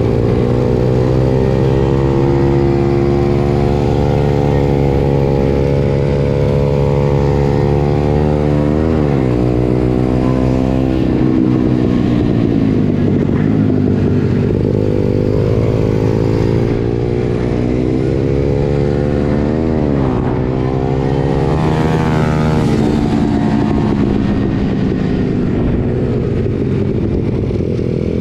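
Pit bike engine running continuously, its pitch rising and falling with the throttle, with two quick swoops in pitch, about a third of the way in and again past two thirds.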